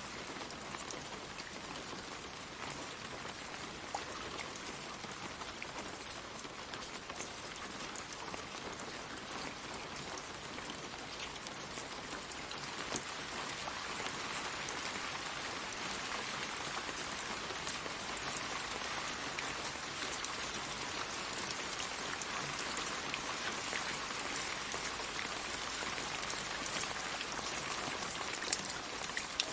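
Steady light rain pattering on leaves, with scattered individual drop ticks; it grows slightly heavier about halfway through.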